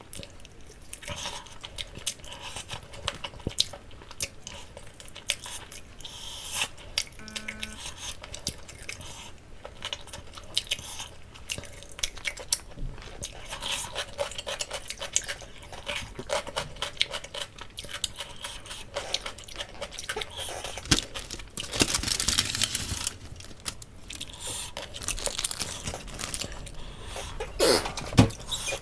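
Close-miked eating of grilled jerk chicken leg: chewing with wet clicks, small crunches and tearing of meat, with a louder, denser stretch of biting and tearing about three-quarters of the way in. A brief short tone sounds at about seven seconds.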